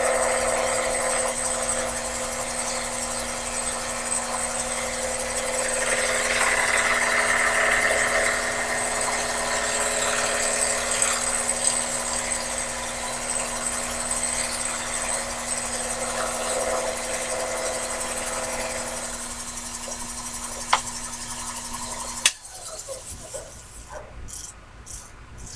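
Sherline mini lathe running with a steady hum and whine while the cutting tool turns the corners off the workpiece, held between centers. It is louder for a few seconds in the first third. The sound stops abruptly with a click about 22 seconds in, leaving a few faint clicks.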